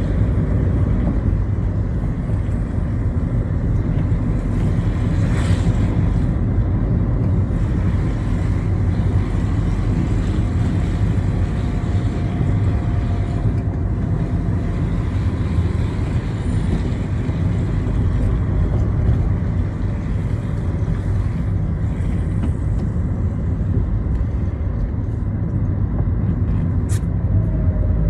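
Citroën Xsara driving on rain-wet roads: a steady low rumble of engine and tyre noise, with the engine's pitch sliding a little now and then. A few short clicks come near the end.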